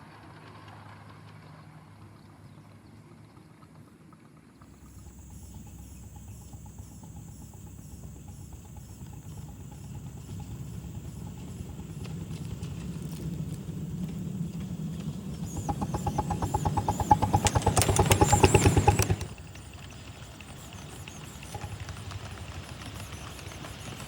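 A 7.5-inch-gauge miniature locomotive approaching and passing close. Its rapid exhaust beats grow louder to a peak about three-quarters of the way through, then cut off suddenly.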